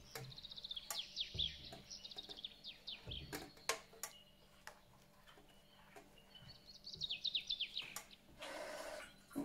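A songbird singing a fast descending run of chirps, twice, with scattered light clicks and a short hiss near the end.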